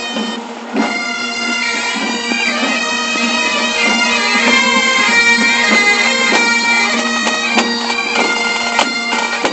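Bagpipes playing a tune over their steady drone, starting about a second in, with a few sharp knocks or bangs near the end.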